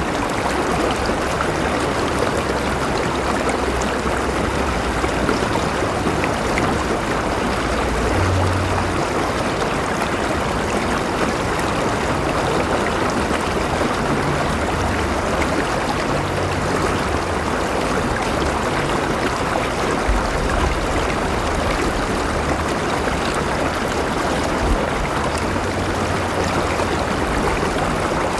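A river flowing steadily, a constant rushing and gurgling of water.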